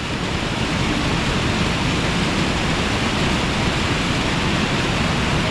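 Steady rushing of falling water from a waterfall, unchanging throughout.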